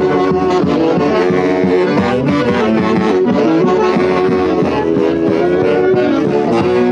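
Band music led by saxophones and brass, playing a lively melody over a steady beat.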